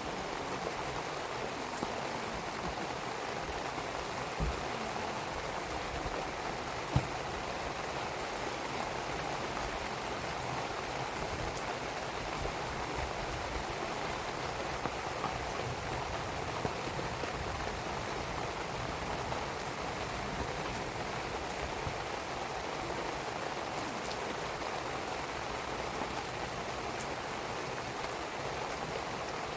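Steady rain falling, with a few sharp pops and crackles from a wood campfire, the loudest about seven seconds in.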